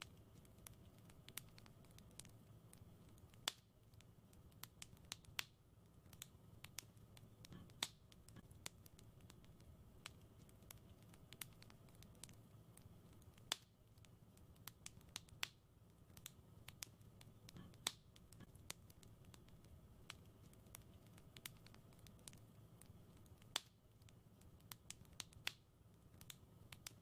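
Wood fire crackling: irregular sharp pops and snaps, a few louder than the rest, over a faint steady low rumble.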